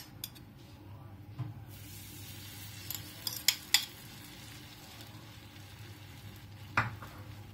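Egg and moong sprout batter sizzling as it hits a hot ghee-greased pan, the hiss starting about two seconds in and going on steadily. A steel spoon clicks sharply a few times as it scrapes the batter from the bowl and spreads it across the pan.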